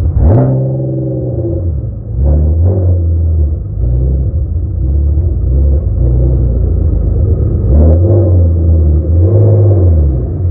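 Dodge 350 diesel truck engine revving in repeated surges over a heavy low rumble, the pitch climbing and falling near the start, twice in quick succession a couple of seconds in, and twice more near the end.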